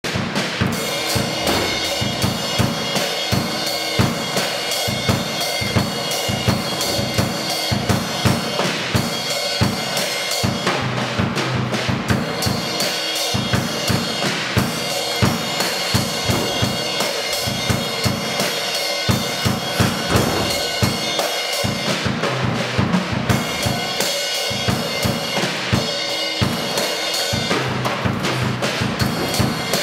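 Drum kit solo: fast, busy playing on bass drum, snare and cymbals, many strokes a second without a break.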